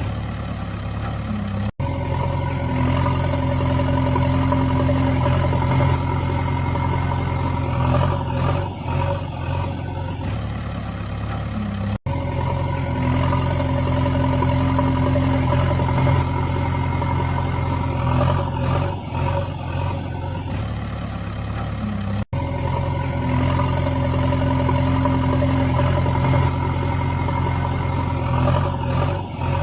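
Steady engine-like running sound played as a loop that repeats about every ten seconds, cutting out for an instant each time it restarts.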